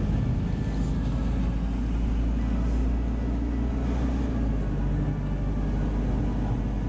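Steady low engine and road rumble of a car, heard from inside the cabin while it is being driven.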